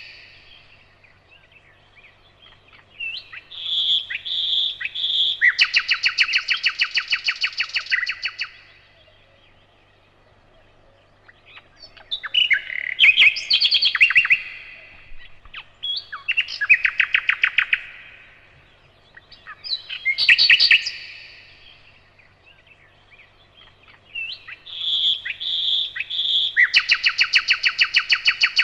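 Nightingale singing in separate phrases a few seconds apart. Some phrases open with a few loud, repeated piping notes, and each phrase breaks into a fast rattling trill.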